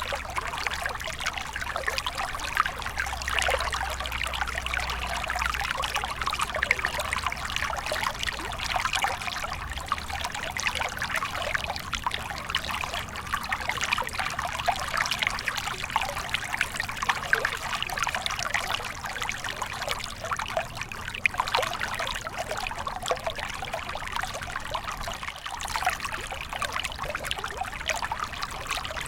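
Small stream flowing steadily, water trickling and splashing over stones in a continuous bright babble with constant fine flickers.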